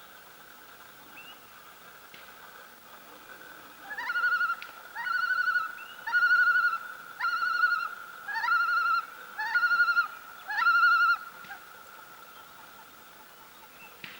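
An unidentified animal calling seven times in steady succession, about one call a second, each a quick upward sweep into a short warbling trill. A steady high-pitched drone runs underneath.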